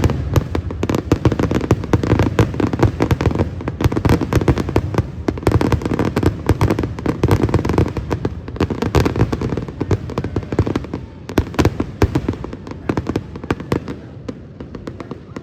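Fireworks display going off in a dense, rapid barrage of bangs and crackles, thinning out and getting quieter near the end.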